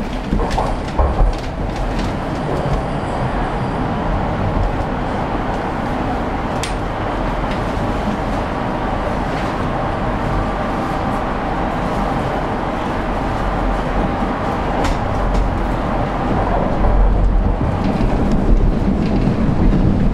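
Toronto subway train running between stations, heard from inside the car: a steady rumble of wheels on the rails with a few sharp clicks, growing louder in the last few seconds.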